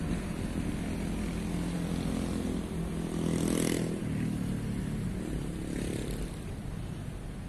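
Diesel locomotive of an approaching passenger train, heard from a distance as a steady low engine drone that swells about three and a half seconds in.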